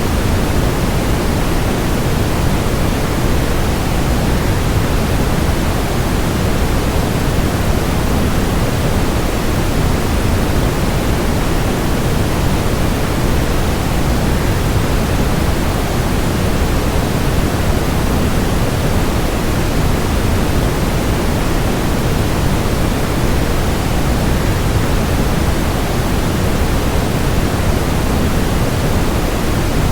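Waterfall white noise: a steady, unchanging rush of falling water, heaviest in the low end, with no breaks or events.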